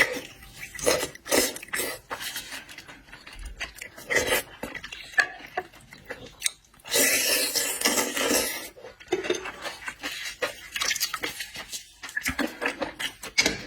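Eating seafood: a run of clicks and clatter of utensils and shells against dishes, with a louder noisy stretch of about two seconds in the middle.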